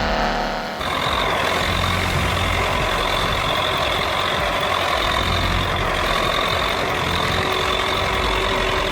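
Tractor engine running steadily, with a steady high whine over it, starting abruptly about a second in.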